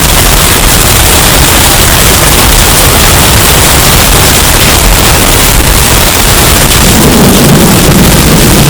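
Hurricane wind sound effect, bass boosted until it distorts: a dense, steady roar of noise at full loudness, with a deeper rumble rising near the end.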